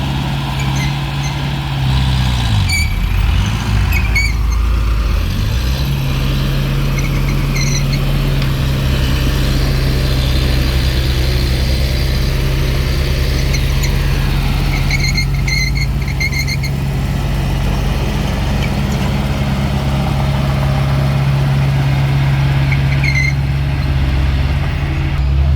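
Diesel engine of heavy earthmoving machinery running steadily. Its pitch dips and climbs back up about two to six seconds in, with short high squeaks at intervals.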